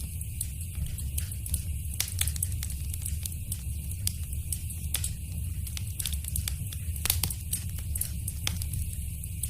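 Wood fire crackling in a fireplace: a steady low rumble under frequent sharp, irregular pops and snaps.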